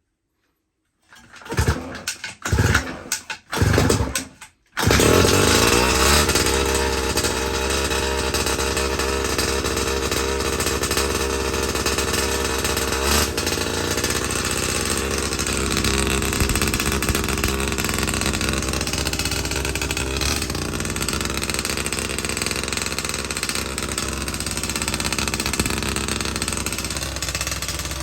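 Pocket bike's small two-stroke engine sputtering in a few short, uneven bursts as it tries to fire, then catching about five seconds in and running steadily.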